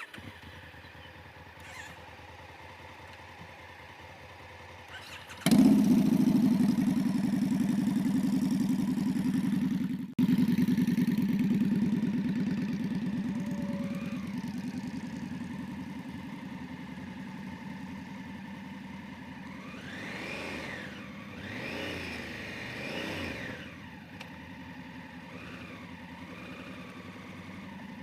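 Motorcycle engine running. It turns suddenly much louder about five seconds in, then eases off, and revs up and down a few times near the end.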